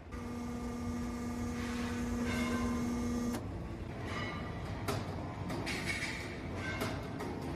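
Factory machinery running: a steady machine hum for about the first three seconds stops abruptly, then machine noise continues with a few sharp metallic knocks.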